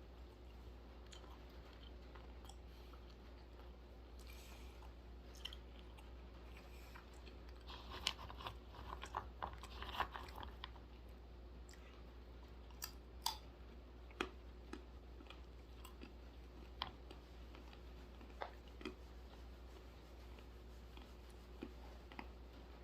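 Chewing dry-roasted almonds close to the microphone: a dense run of crunches about 8 to 11 seconds in, then single crunches every second or two. A steady low hum runs underneath.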